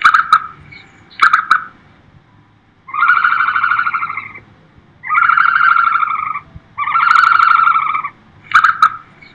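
Loud recorded bird calls: short sharp calls at the start, about a second in and near the end, with three long buzzy, harsh calls of over a second each in between.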